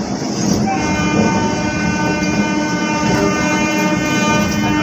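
Electric train running over the tracks, heard from its open doorway. About a second in, a long steady horn note comes in and is held.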